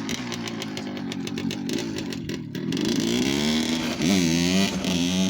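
1988 Suzuki RM80's single-cylinder two-stroke engine running just after a cold start: it fires in even pulses at low revs, then is revved up about three seconds in, blipped again near four seconds, and held at higher revs.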